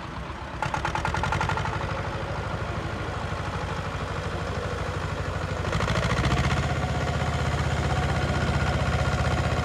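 A tractor's diesel engine running hard with a rapid, even beat. It rises in level about half a second in and again near the middle.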